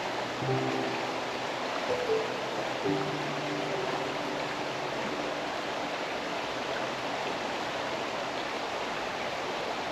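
Steady rushing of flowing river water, with soft background music: a few held notes come in about half a second, two and three seconds in and fade away by about halfway through.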